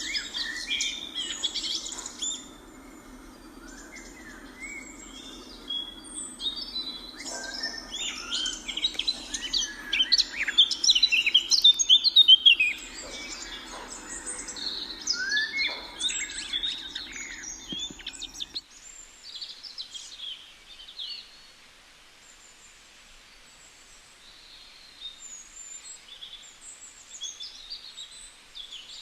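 Many birds chirping and calling over one another, loudest and densest in the middle, over a steady low hum. About two-thirds of the way through, the hum cuts off suddenly and the calls that follow are fainter and sparser.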